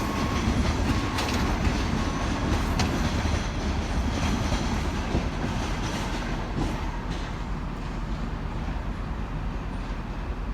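Class 43 HST diesel train running through the station with a low rumble and clicks of wheels over rail joints, slowly fading.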